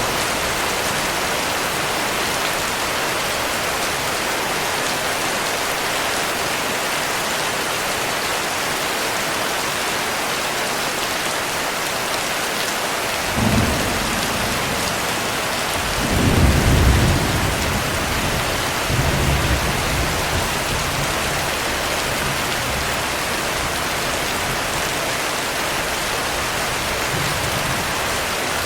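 Heavy rain falling steadily. Thunder rumbles about halfway through: first a short one, then a longer, louder roll a few seconds later, followed by a weaker rumble.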